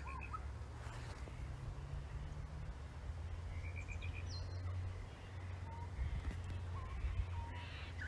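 Birds calling in bushland: a couple of short runs of quick notes, a brief high whistle and a few lower single notes, over a steady low rumble.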